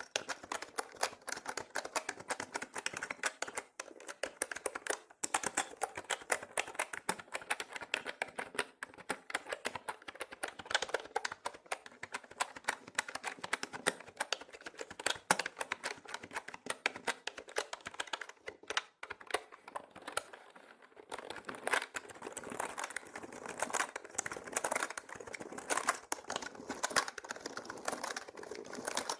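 Mechanical keyboard being typed on fast and continuously, a dense stream of key clicks with brief lulls about five seconds in and again around two-thirds of the way through. It is processed as 8D audio, panned around the listener.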